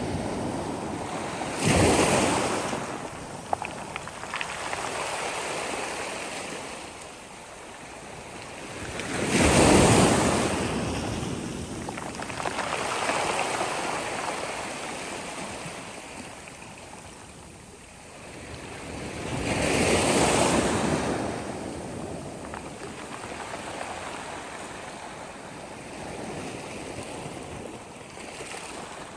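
Sea waves breaking three times, about every nine seconds. Each one rises to a loud rush and then fades into a softer, steady hiss of wash.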